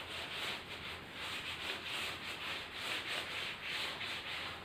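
Handwriting: a run of short scratchy writing strokes, several a second, as a question is written out.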